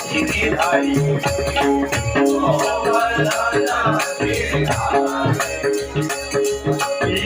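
Traditional double-bari bhajan music: a steady rhythm of deep drum strokes and quick shimmering cymbal strokes under held melody tones and a singing voice.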